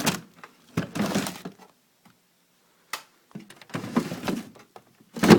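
Plastic freezer drawers being pulled out and pushed back in: several short bursts of sliding and rattling, with a sharp click about three seconds in.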